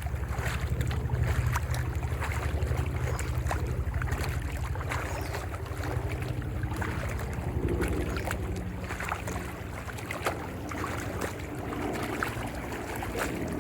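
Wind buffeting the microphone outdoors: a steady low rumble with a faint hiss of outdoor ambience over it.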